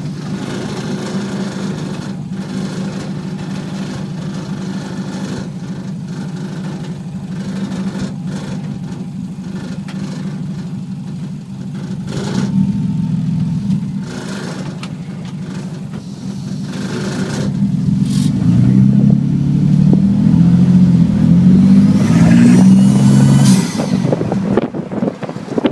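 Twin-turbo Toyota 2JZ inline-six engine running as the car drives slowly, then about 16 seconds in it is given more throttle and pulls harder, its pitch climbing in repeated steps for several seconds before dropping back. It pulls cleanly, with the part-throttle stumble fixed.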